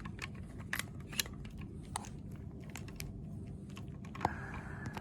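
Scattered light clicks and taps, about a dozen, irregularly spaced, over a low steady hum; a faint steady tone joins near the end.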